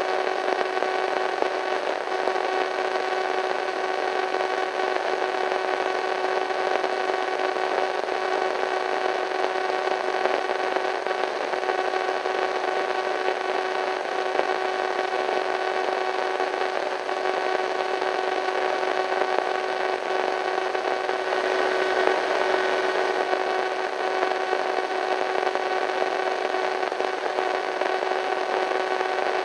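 Radio static: a steady hiss with a faint, steady hum of several evenly spaced tones running through it. The hiss swells slightly for a couple of seconds about 21 seconds in.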